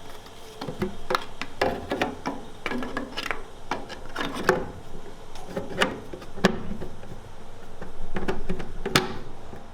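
Irregular knocks, clicks and clatter of parts being handled and fitted by hand, with a few sharper knocks about six and a half and nine seconds in.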